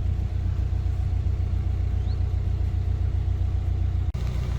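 Narrowboat diesel engine running steadily with an even low beat; the sound breaks off for an instant about four seconds in, then carries on.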